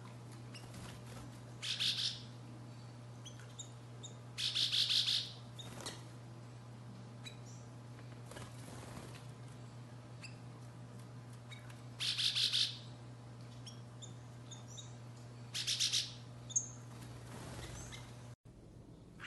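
Small birds calling: four louder bursts of rapid, buzzy high notes spaced a few seconds apart, with fainter short chirps in between, over a steady low hum.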